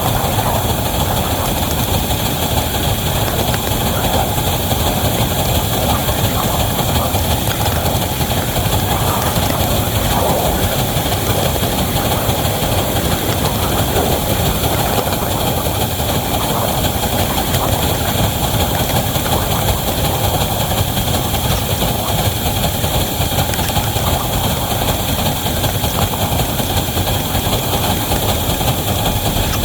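Wabash #713 hauling a heavy train: a steady, unbroken running noise of the locomotive and train.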